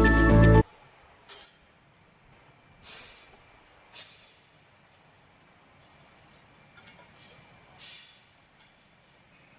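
Background music that cuts off suddenly about half a second in, then the faint working sounds of an earthing-rod CNC drilling machine: a low steady hum with a few short clicks and brief hissy swells.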